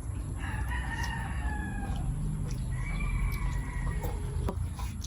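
Rooster crowing twice, each crow about a second and a half long, the first falling slightly in pitch.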